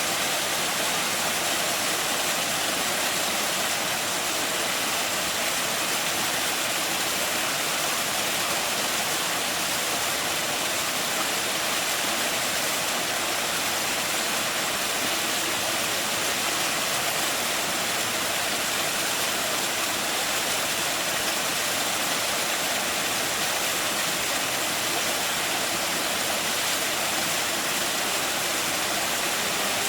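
Small mountain-stream waterfall splashing steadily into its plunge pool, an even rushing of falling water.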